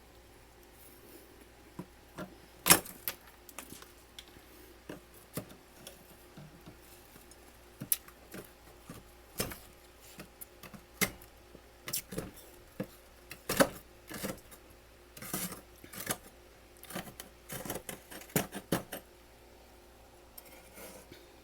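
Freezer frost being bitten and chewed close to the microphone: irregular crisp crunches and crackles, with a few louder bites, thinning out near the end.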